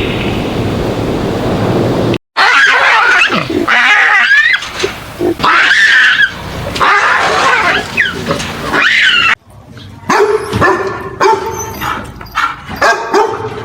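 Animal calls in several separate clips cut together. A run of loud, shrill calls that bend up and down in pitch lasts about seven seconds and stops suddenly. After a short drop, steadier pitched calls follow, mixed with clicks.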